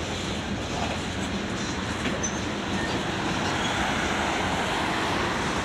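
Long freight train rolling slowly past on a speed restriction, a steady rumble of wheels and cars on the rails that grows a little louder.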